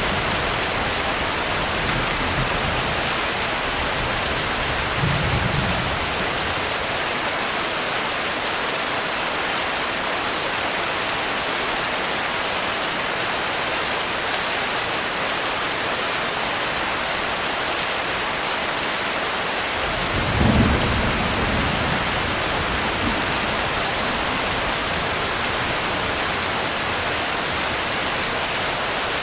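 Steady heavy rain with two low rolls of thunder, the first about five seconds in and a louder one about twenty seconds in.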